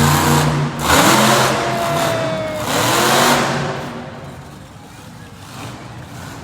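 Monster truck engine revving loudly, dipping briefly and rising again, then falling away to a much lower level after about four seconds.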